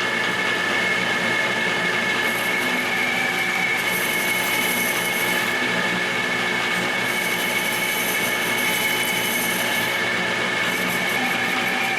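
Metal lathe running with a steady whine while a cut-off blade roughs a sphere into 6061 aluminum bar stock; a high hissing cutting noise comes and goes several times.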